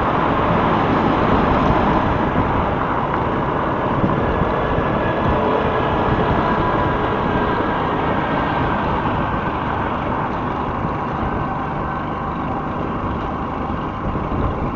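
Steady traffic noise from a moving motorcycle: engine running and road and wind noise, with no distinct events.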